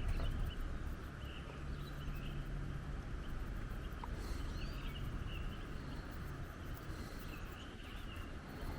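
Wind rumbling on the microphone, with a small bird chirping in short, high calls every second or two.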